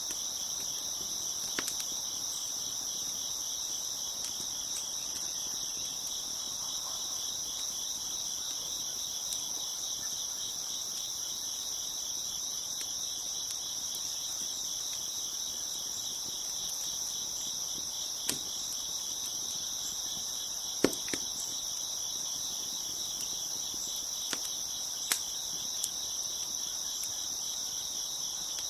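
Crickets chirping in a steady, dense chorus, with a few sharp pops from a crackling wood fire, the loudest about two-thirds of the way through.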